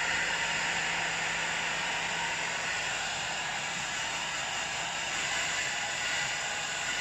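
Hair dryer running on its cold setting, a steady hiss of blown air, with a faint low hum that stops about two and a half seconds in.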